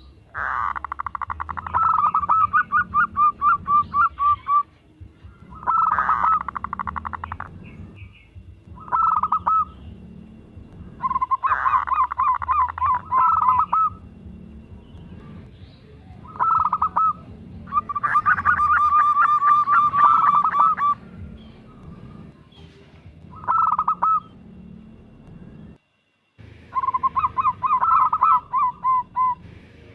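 Zebra dove singing: phrases of fast, rolling, staccato cooing notes repeated about eight times, with short pauses between them.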